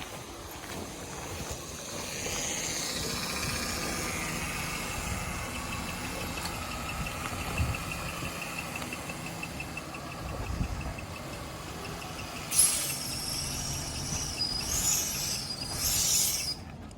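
A car engine running, with a thin high-pitched whine over it. A few seconds before the end, a louder hiss starts with a sharp knock, then cuts off suddenly.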